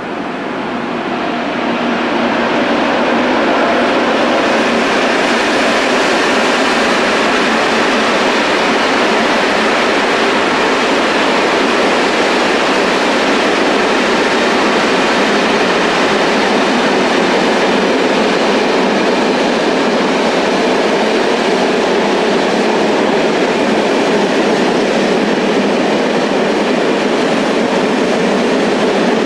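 Freight train rolling across a stone arch viaduct: a steady noise of wagon wheels on the rails, building over the first few seconds as the train arrives, then holding steady as the wagons pass.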